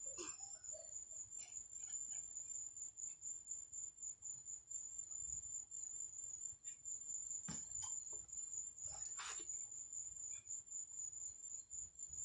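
Insects trilling steadily on one high note, with a few faint squeaks and two sharper knocks past the middle.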